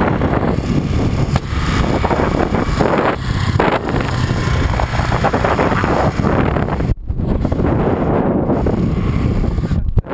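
Wind buffeting the microphone on a moving motorbike: a loud, dense rumble and hiss that breaks off briefly twice, about seven and ten seconds in.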